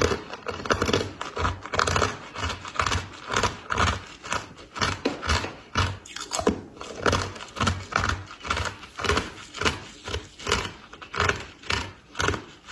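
Close-up chewing of freezer frost: a steady run of crunches, about two a second, each with a dull thud from the jaw.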